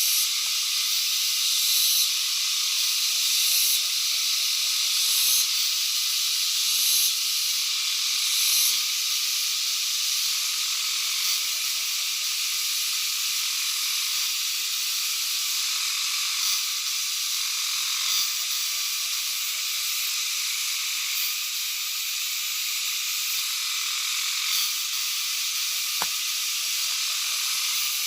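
A dense, high-pitched chorus of insects calling, a steady shrill hiss that goes on without a break, called a strange sound. A single faint click comes near the end.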